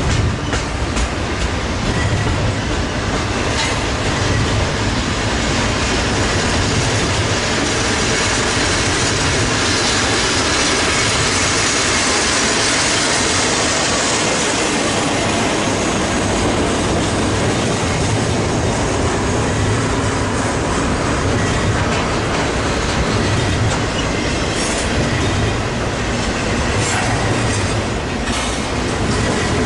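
Cars of a long intermodal stack freight train rolling past, a steady run of wheel-and-rail noise. Wheels click over rail joints near the start and again near the end, and there is some wheel squeal through the middle.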